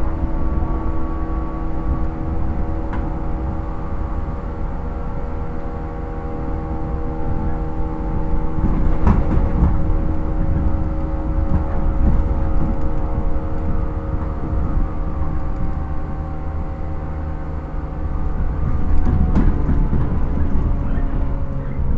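Inside a JR 115 series electric multiple unit's motor car: the MT54D traction motors give a steady whine over the heavy rumble of wheels on rail. A few sharp clicks come through, about three seconds in, about nine seconds in and near the end, and the whine sinks slightly in pitch toward the end.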